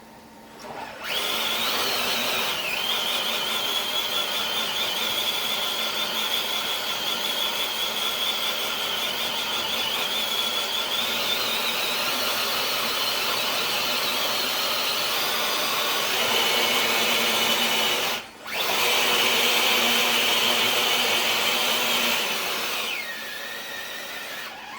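Electric motor and geared drivetrain of an RC scale crawler truck whining steadily under load as it drags a weighted pull sled across concrete. It starts about a second in with a short rise in pitch, cuts out for a moment about three-quarters of the way through, resumes louder, then dies away shortly before the end.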